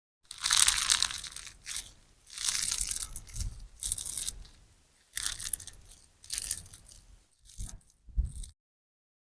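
Sponge slime, a sponge soaked through with clear slime, squeezed and pressed by hand in about seven separate squishes, each a wet crackling sound with short pauses between; the first is the longest and loudest.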